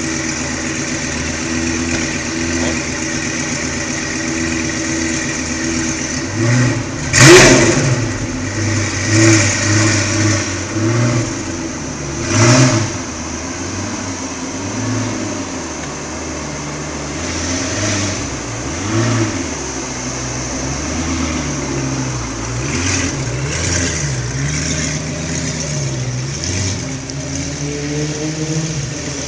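Lamborghini Gallardo V10 idling, then revved sharply several times, the first blip the loudest. It then runs steadily at low speed, rising in pitch near the end as it accelerates away.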